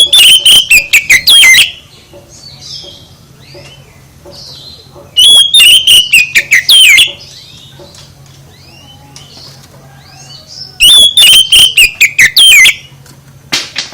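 Songbird song in three loud bursts about five seconds apart, each about two seconds of rapid sharp notes and sweeping trills, with a short final note near the end. Faint chirps and a low hum fill the gaps.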